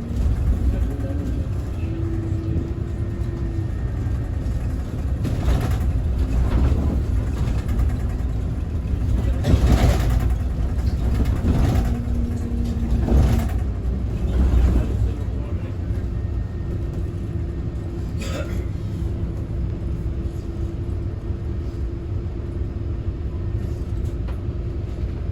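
Scania Citywide city bus running: a steady low engine and road rumble with a faint whine, and several short rushes of noise through the middle.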